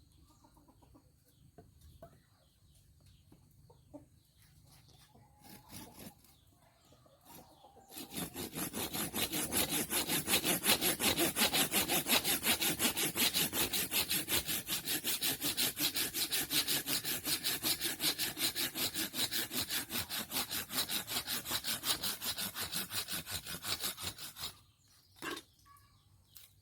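Rapid, even back-and-forth rasping strokes of a hand tool working through material during tool repair, starting about eight seconds in and stopping shortly before the end.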